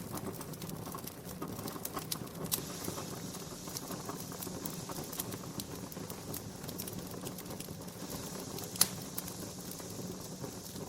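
Wood fire crackling in a fireplace: a steady low hiss with irregular small pops and snaps, and one louder pop about nine seconds in.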